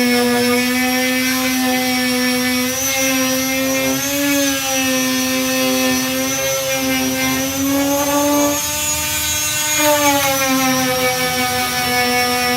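Electric disc sander running steadily with a 240-grit disc on body filler, its motor whine wavering with the pressure and rising in pitch for a moment about eight seconds in before settling back.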